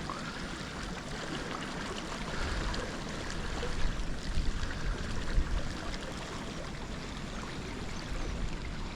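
Steady rush of flowing water below a dam, with a few short, louder sounds around the middle.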